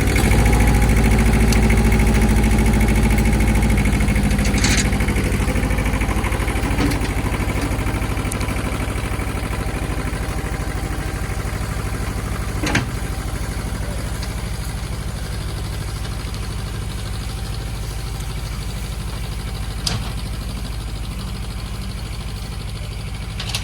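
Ford 1700 compact tractor's three-cylinder diesel engine running steadily, pulling a log. It gets louder just at the start and then slowly eases off, with a few sharp clicks or knocks along the way.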